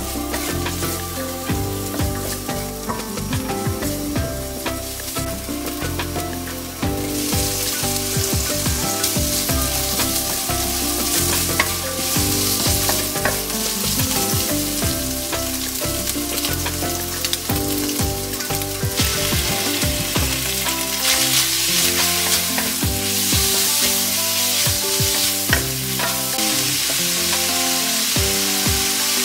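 Food sizzling and frying in hot oil in a nonstick wok while a wooden spatula stirs it: scallions and chili powder frying into chili oil, then diced Spam and kimchi. The sizzle gets noticeably louder about a quarter of the way in.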